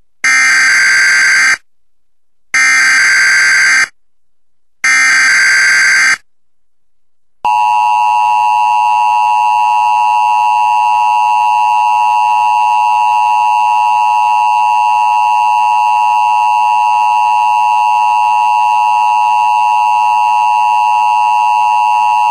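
Emergency Alert System–style warning tones. Three short, loud screeching data bursts come about a second apart. About seven seconds in, a long steady two-tone attention signal starts, the alarm that precedes a spoken severe weather warning.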